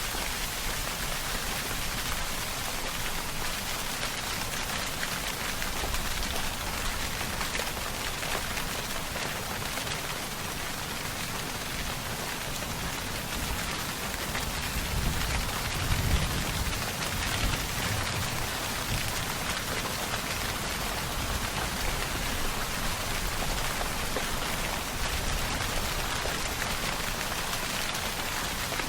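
Steady rain falling, an even hiss of drops on surfaces, with a brief low rumble swelling about halfway through.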